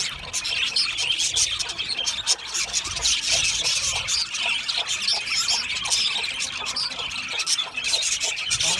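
A flock of budgerigars chattering and chirping together in a dense, unbroken stream of short high scratchy and warbling notes.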